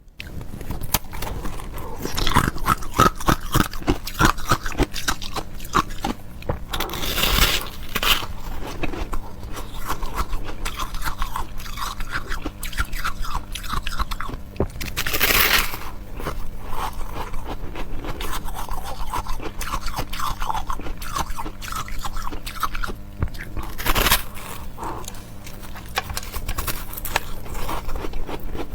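Close-miked chewing of ice: continuous crisp crunching and crackling of ice between the teeth, with a few louder crunching bites about 7, 15 and 24 seconds in.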